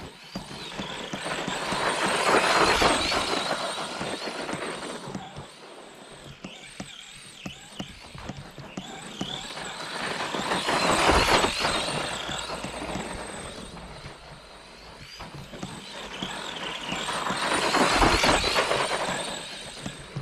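ARRMA Granite 4x2 Boost RC monster truck's brushed Mega 550 motor and drivetrain running as it drives. The whine and tyre noise swell and fade three times, loudest about two seconds in, near the middle and near the end, with scattered clicks throughout.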